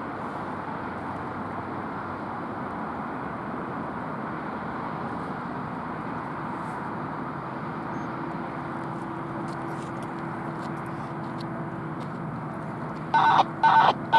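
Steady rolling rumble of a moving rail car. Near the end come three short, loud, pitched blasts in quick succession.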